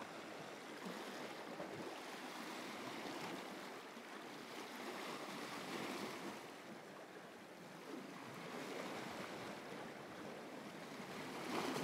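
Sea waves washing against the shore, a steady rushing wash with no distinct events.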